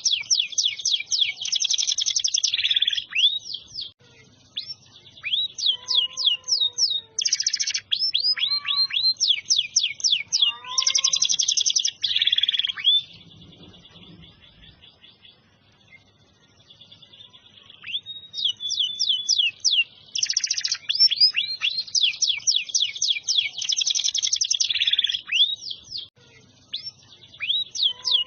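Domestic canary singing vigorously: long phrases of rapid rolling trills and quick downward-sweeping notes. The song drops to a faint sustained note about halfway through for several seconds, then resumes at full strength.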